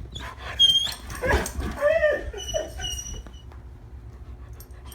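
A one-year-old female Labrador retriever gives high-pitched whines mixed with a few short, louder barks during the first three seconds, then goes quieter.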